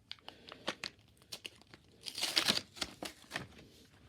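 Packaging of a set of small notepads being torn open and crinkled by hand: a run of short crackles with one louder rip about two seconds in.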